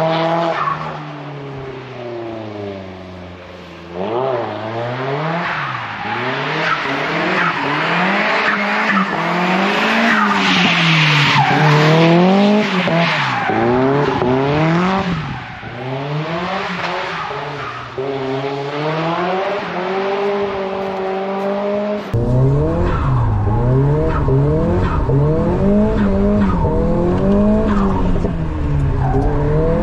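Nissan S15 Silvia drift car's engine revving up and down again and again as the throttle is worked, with tyre squeal through the middle stretch. About twenty-two seconds in the sound changes abruptly and a low rumble joins underneath the revving.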